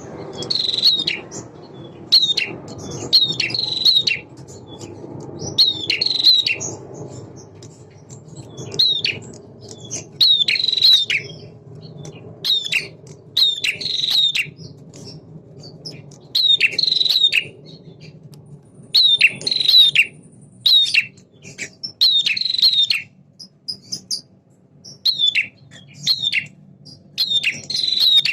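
Male prinia (prenjak) singing: short, sharp chirping phrases repeated about every one to two seconds.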